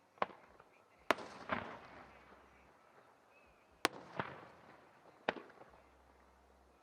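Aerial fireworks shells bursting: four sharp bangs a second or more apart. After each of the two loudest, a second, rougher burst follows about half a second later.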